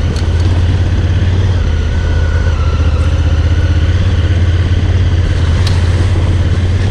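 Adventure motorcycle engine running steadily while riding, with a strong, even low drone and no change in pace.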